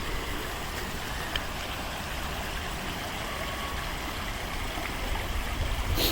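Shallow creek water running steadily over rocks, with a low rumble underneath and one brief sharp knock or splash near the end.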